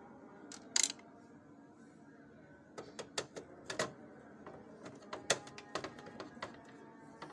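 Irregular sharp clicks and taps of plastic covers, parts and hand tools being handled on a Xerox WorkCentre 5855 copier's document feeder during disassembly, over a faint steady hum.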